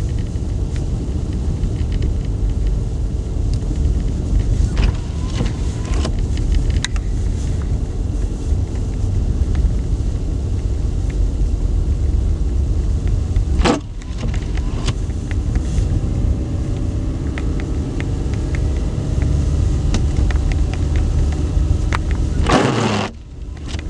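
Steady low rumble of a motor vehicle running, with faint engine tones rising slowly in the second half. There are two brief sharp breaks in the sound, about 14 seconds in and near the end.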